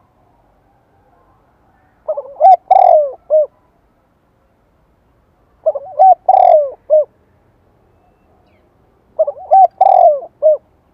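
Spotted dove cooing: three phrases about three and a half seconds apart, each a quick run of short coos, then a longer, louder coo and a last short note. This is the call used as a decoy to draw wild doves to answer.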